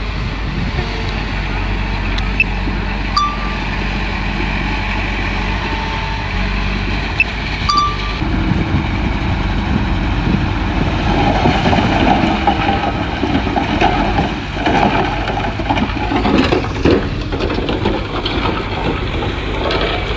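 Komatsu bulldozer's diesel engine running steadily under load, with its tracks and blade clanking more and more from about eight seconds in as it pushes soil and rock.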